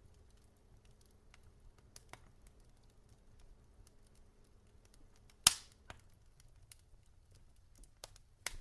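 Burning logs in a fireplace crackling: scattered small ticks, with one sharp, loud pop about halfway through and a few more near the end.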